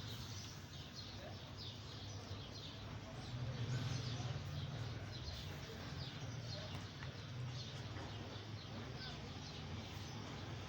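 Small birds chirping, many short, quick calls repeating over and over, above a steady low rumble.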